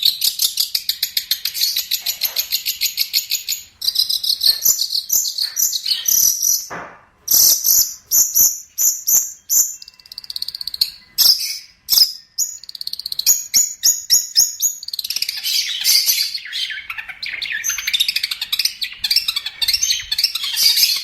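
Long-tailed shrike (cendet) singing a fast, chattering song of rapid high notes and trills, broken by a few short pauses.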